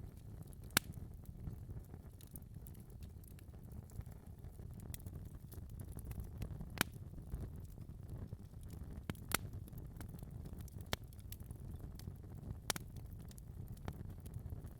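Wood fire burning in a fireplace: a steady low rumble of the flames with scattered sharp pops and crackles, a few louder pops standing out.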